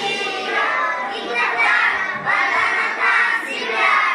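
Group of young children singing together over backing music, in held, sustained phrases.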